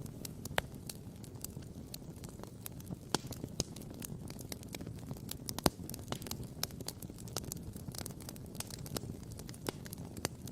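Wood campfire crackling, with irregular sharp pops several times a second, one louder pop a little past the middle, over a steady low rumble.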